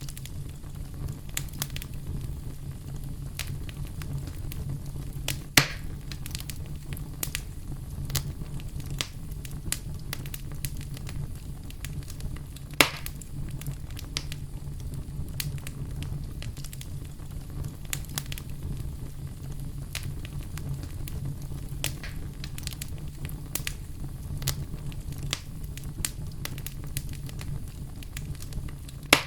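Campfire burning, crackling steadily with a steady low rumble beneath, and two louder pops, one about five and a half seconds in and one about thirteen seconds in.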